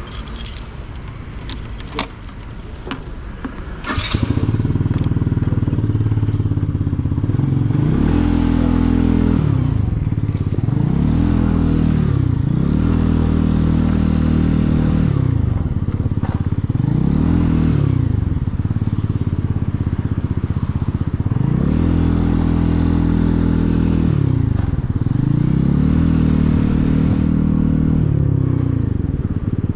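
A few clicks and rattles, then about four seconds in a motorcycle engine gets loud. Its pitch climbs and drops back several times as the bike pulls away and works up through the gears.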